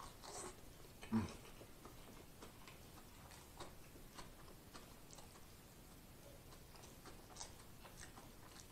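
Faint, scattered wet clicks of a person chewing a mouthful of sandwich with the mouth closed, with a short hummed "mm" about a second in.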